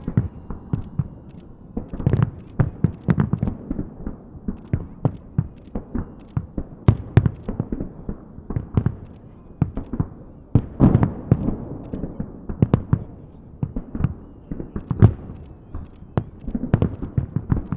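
Fireworks salute: an irregular string of shell bursts and bangs, often several a second, over a low rumbling background.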